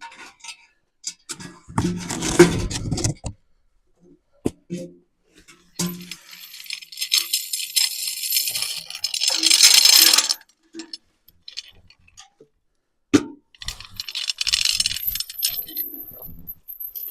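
Small metal objects jingling and clinking in two spells a few seconds apart, with a few knocks and clicks between them.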